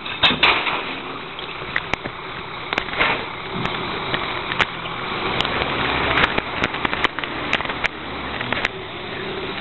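Heil 5000 rear-loader recycling truck at work: a steady noisy rumble with many sharp clicks and clanks scattered throughout.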